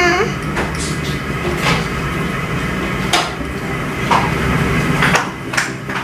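Irregular light knocks and taps, about eight in a few seconds, as paint pots and brushes are handled while mixing paint, over a steady low hum.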